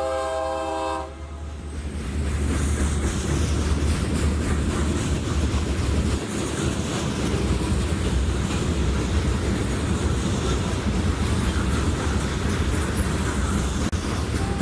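Freight locomotive air horn sounding a multi-note chord that cuts off about a second in, followed by a train rolling past with a steady low rumble and wheels clattering over the rail joints.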